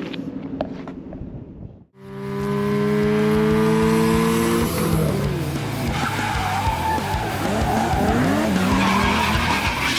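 Dodge Charger Hellcat's supercharged 6.2-litre V8 with its mid-mufflers deleted, cutting in suddenly about two seconds in at full throttle, its note climbing steadily for a few seconds. From about halfway a wavering squeal of tyres rises over the engine.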